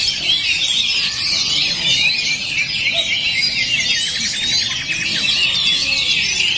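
Several caged oriental magpie-robins (kacer) singing at once in a songbird contest, in a dense, unbroken chorus of overlapping high whistles and chattering phrases.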